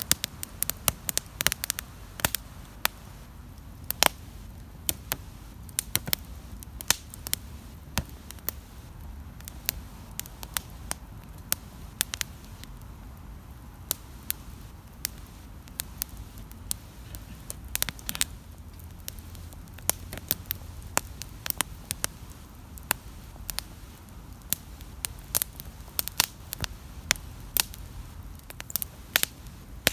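Wood campfire crackling and popping: sharp snaps at irregular intervals over a low steady rumble of burning.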